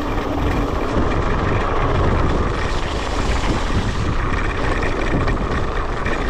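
Electric scooter ridden over a rough, muddy off-road track: a steady rumble of tyres and jolting, mixed with wind noise on the microphone.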